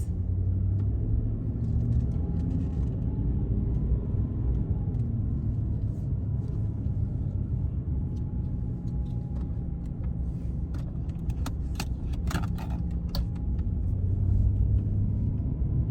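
Steady low road and engine rumble heard from inside a moving car, with a few light clicks or rattles about two-thirds of the way through.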